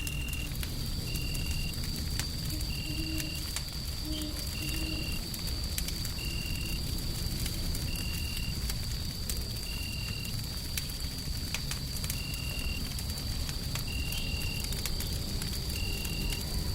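Wood fire crackling over a steady low white-noise bed, with a short high tone repeating about every one and a half to two seconds and a thin steady high whine that comes in just after the start.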